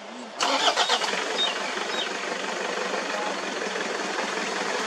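Safari jeep engine starting about half a second in, with a short rattly catch, then running steadily at idle.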